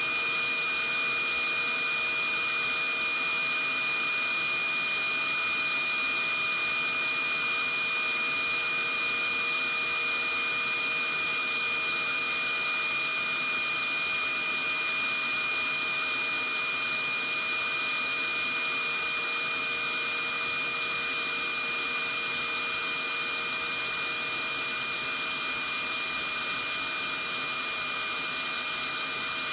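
Vacuum cleaner running steadily: an even rushing hiss with a high whine held on one pitch.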